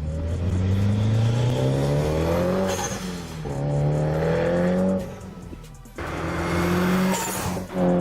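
Turbocharged car engine revving hard with rising pitch, broken off by throttle lifts. Around three seconds in and again near the end, a lift brings a short high hiss as the turbo's boost is let go.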